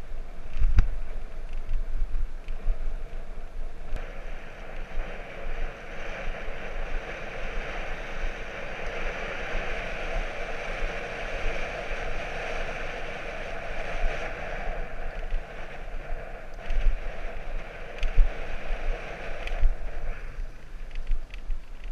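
Wind buffeting the microphone over the rushing tyre and road noise of a bicycle in motion, swelling a few seconds in and easing off near the end, with a few knocks.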